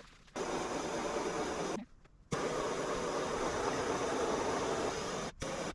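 A steady rushing noise, like a small blower motor running, that starts and stops abruptly three times.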